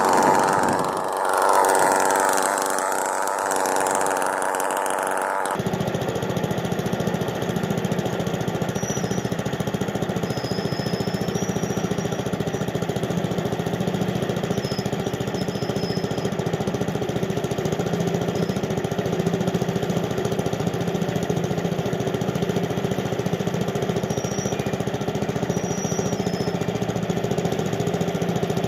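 Engine running at a steady speed. The first five seconds have a wavering, changing pitch, then the sound switches abruptly to an even, unchanging drone.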